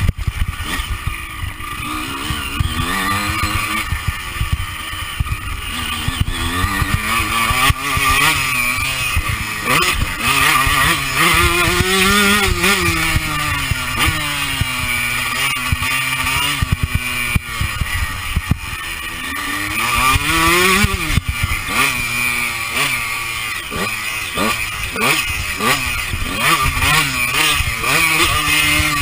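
Honda CR125 two-stroke single-cylinder motocross engine, ridden hard: revs climb and drop over and over as the rider accelerates, shifts and backs off. Wind noise on the chest-mounted microphone and knocks from the bike over the bumps run through it.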